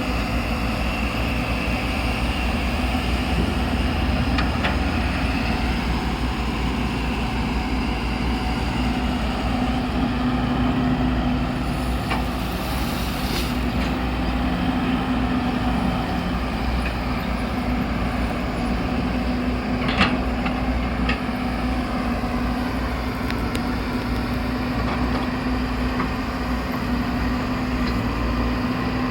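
Excavator's diesel engine running steadily under work, with a low hum and a few light clanks, and one sharper knock about two-thirds of the way through.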